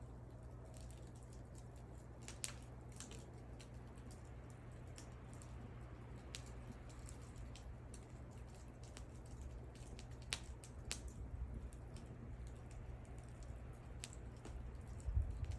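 Wood fire burning: scattered sharp crackles and pops over a low steady rumble, with a louder, busier stretch of rumble and crackling near the end.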